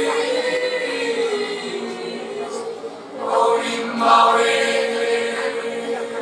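Choir singing sustained chords, growing louder and fuller about three seconds in.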